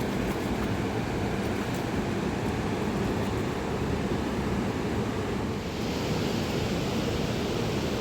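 Steady rush of a fast mountain river, a dense even noise that holds at one level throughout.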